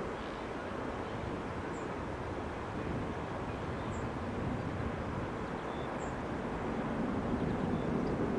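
Jet airliner engine noise, a steady rumble that grows gradually louder toward the end as the aircraft approaches.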